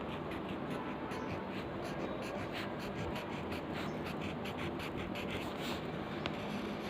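Pencil scratching on paper in quick, repeated short strokes while drawing a leaf.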